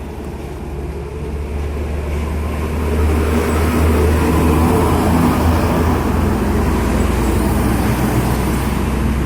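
A heavy road vehicle passing close by in traffic. Its low engine drone grows louder over the first three seconds, then stays loud.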